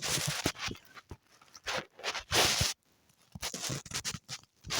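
Several short scratchy strokes in a row, like drawing or sketching strokes rubbing across a surface, with brief gaps between them.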